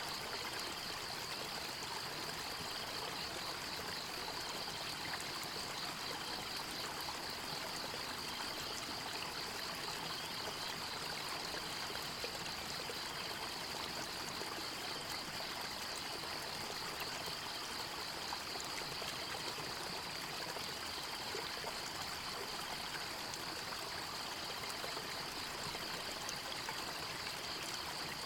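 A stream running steadily over rocks, with a continuous high-pitched pulsing trill from a small creature running alongside it.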